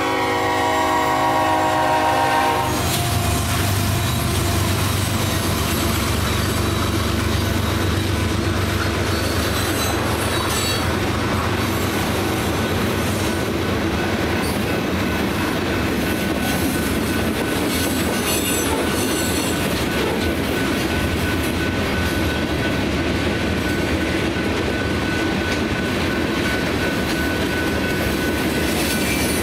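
Freight locomotive horn sounding a chord that ends about three seconds in, then the train's freight cars rolling steadily through the crossing with a continuous rumble of wheels on rail. From about twelve seconds in a thin, steady wheel squeal rides over the rumble.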